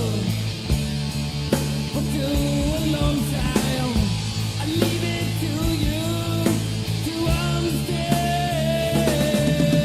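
Heavy metal band playing: distorted electric guitars, bass and drums, with a melodic lead line of held notes that bend in pitch.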